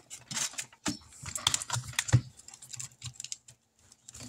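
Hands handling things on a tabletop: a run of quick, light, irregular clicks and rustles.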